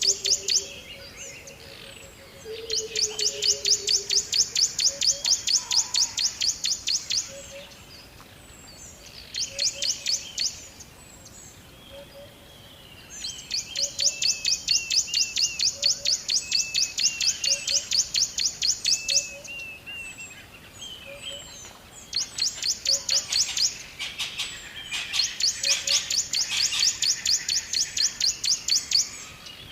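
Birdsong: a rapid, high trill sung in phrases of a few seconds, about five or six times. Between the phrases come softer chirps and a low short note repeated about once a second.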